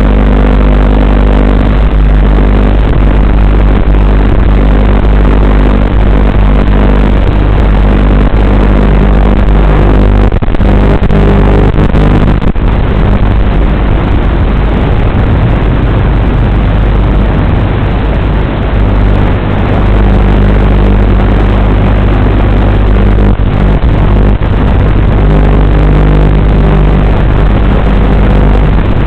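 WLToys 12418 RC car running, heard through its onboard FPV camera audio as a loud, steady buzz and hiss that barely changes.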